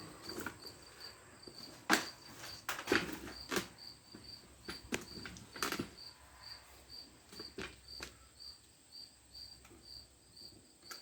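A cricket chirping steadily in the background, about three chirps a second. Over it come scattered knocks and clunks of handling, the loudest about two seconds in and others around three and six seconds.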